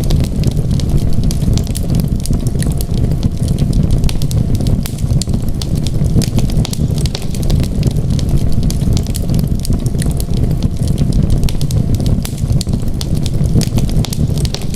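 Fireplace fire crackling, with frequent sharp pops and snaps over a steady low rumble of flames.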